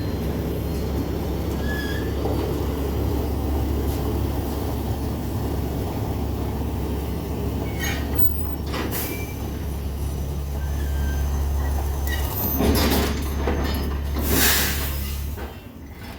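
Air compressor running with a steady hum, then shutting off shortly before the end, with a couple of short bursts of hissing air just before it stops.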